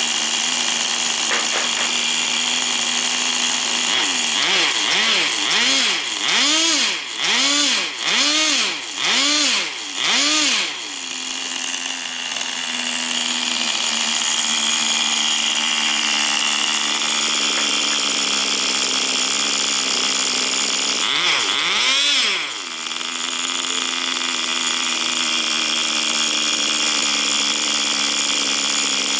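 Small nitro engine of a Tamiya TGS 1/10 RC car running at a steady high idle, revved up and down in a quick series of throttle blips about once a second, then settling back to idle and revved once more later on. The engine is running well, in the owner's words.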